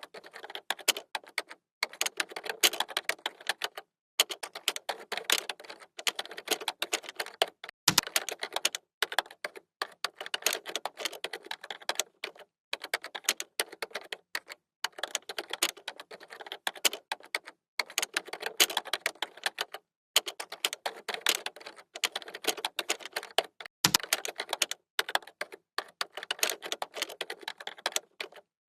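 Typing on a computer keyboard: fast runs of key clicks broken by short pauses every second or two, with a heavier thump twice, about a third of the way in and again near the end.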